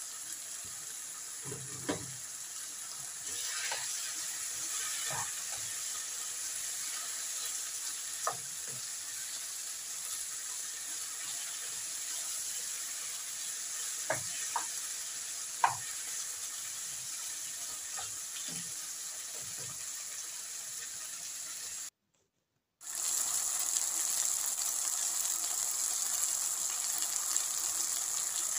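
Chicken pieces with onion and garlic sizzling steadily while being browned on high heat in a non-stick frying pan, with a few sharp knocks of a spatula against the pan as it is stirred. The sound cuts out for a moment about three-quarters of the way through and comes back with louder sizzling.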